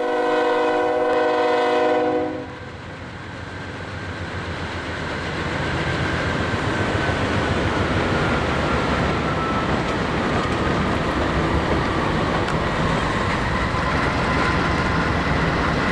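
Diesel locomotive air horn sounding one held blast that cuts off about two and a half seconds in. It is followed by the rumble of a train rolling past, which builds over a few seconds and then holds steady, with a faint tone slowly falling in pitch.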